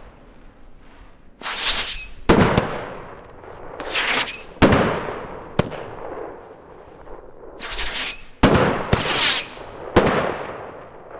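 Stealth Fireworks 'Terminator' multishot cake firing spinner and tourbillion shots. About four times a shot goes up hissing with a high whistle, and within a second a shell bursts with a loud bang. There is one extra sharp crack midway.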